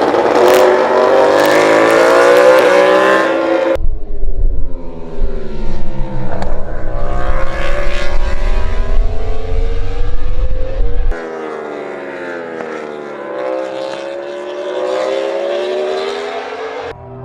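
High-revving racing engine on track, its pitch climbing and falling through gear changes, in three edited shots: a loud run rising in pitch, a cut about four seconds in to a shot with a heavy low rumble, and a quieter shot from about eleven seconds in.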